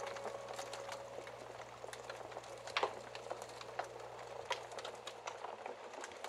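Wood fire crackling in a fireplace: scattered small snaps and pops, with one louder pop about three seconds in. A ringing musical note fades out during the first second.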